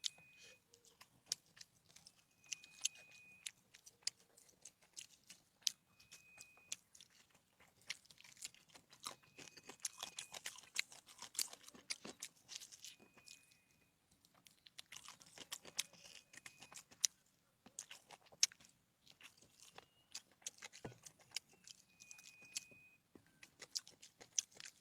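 A person eating, chewing and biting food close to the microphone, with many irregular wet smacks and small crunches. A faint short high beep recurs every few seconds.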